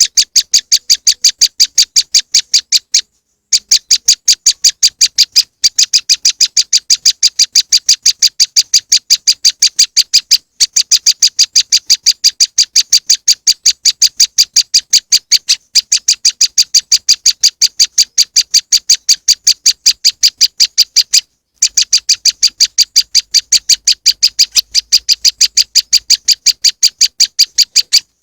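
Prenjak lumut bird-lure recording: a loud, rapid series of short, high call notes, about five a second. The notes run without pause except for a few short breaks.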